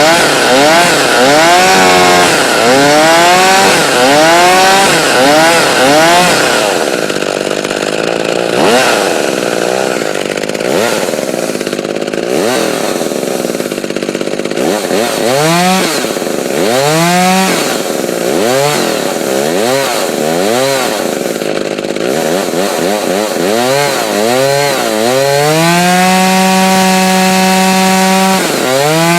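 McCulloch Power Mac 310 two-stroke chainsaw running just after a cold start. The throttle is blipped over and over, so the engine pitch rises and falls again and again. Near the end it is held at high revs for a couple of seconds, then dropped and revved again.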